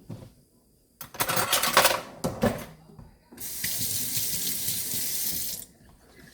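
Kitchen sink tap running in a steady hiss for about two seconds, then turned off abruptly. Before it, about a second in, there is a louder burst of noisy clattering and a knock.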